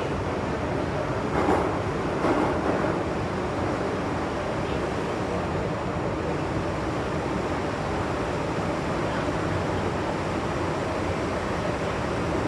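MTR M-Train electric multiple unit running along the line: a steady rumble of wheels and running gear on the rails. Two short, louder clanks come about one and a half seconds in and again just after two seconds.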